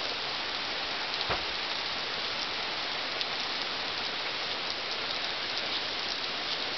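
Heavy rain pouring down steadily: an even, unbroken hiss of a downpour that is not letting up.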